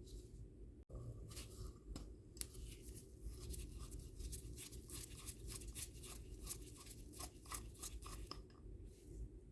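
A quick run of short scraping, clicking strokes, several a second, from hands or a tool working on parts, over a steady low hum.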